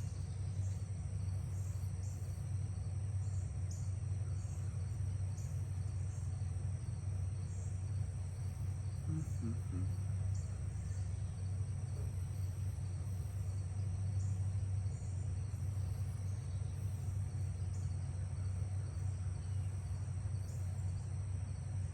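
Crickets chirping continuously over a steady low hum, with a faint short voice sound about nine seconds in.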